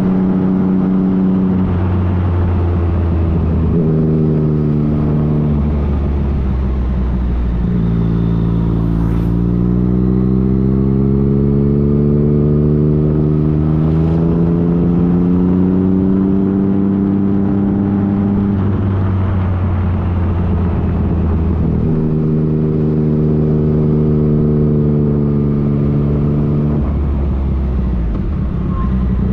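2015 Yamaha FJ-09's three-cylinder engine running under way. Its pitch shifts up and down every few seconds as the gears and throttle change, and climbs steadily for about ten seconds in the middle before falling away.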